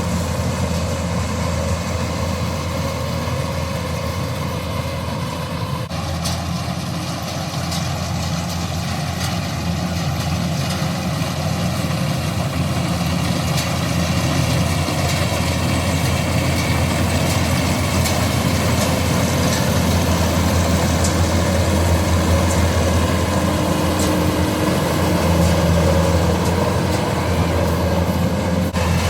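Combine harvester engine running steadily with a constant low hum.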